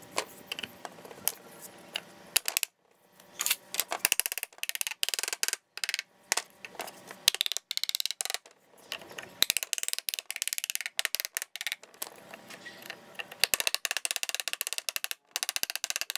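Rapid, irregular sharp knocks and clicks from woodworking on timber, in short runs broken off by abrupt cuts.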